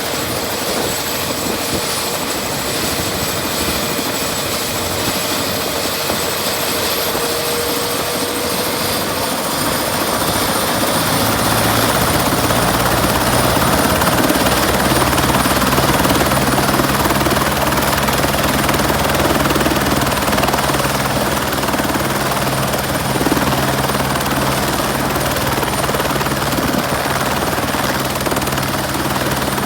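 Airbus H125 helicopter running with its single turboshaft engine whining. Between about seven and twelve seconds in, the whine rises in pitch as the rotor speeds up; after that a steady low rotor beat comes in and the sound grows a little louder.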